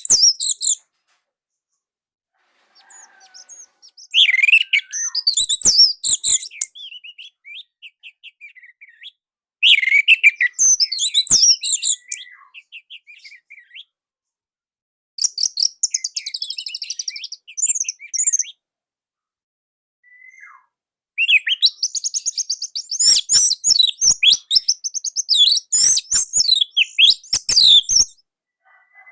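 Orange-headed thrush singing: about five bursts of fast, high-pitched, varied song, each a few seconds long, separated by silent pauses of one to three seconds, with the longest burst near the end. The song is the tight, loud type used as a master recording to train captive birds.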